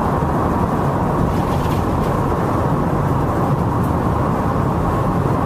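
Steady road and engine noise heard from inside a moving car's cabin: a continuous low rumble with no distinct events.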